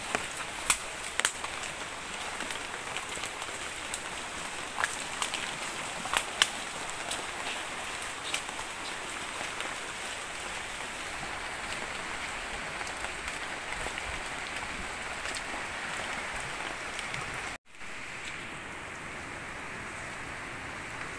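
Heavy rain falling steadily, with scattered sharp taps during the first several seconds. The sound drops out for an instant about 17 seconds in, then carries on slightly smoother.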